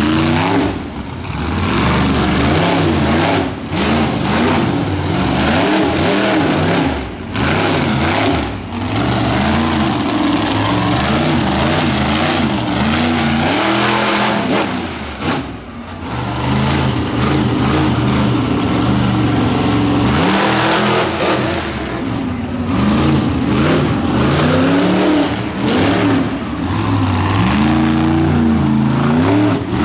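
Monster truck engine revving hard, its pitch rising and falling again and again as the throttle opens and closes, with several brief drops in loudness.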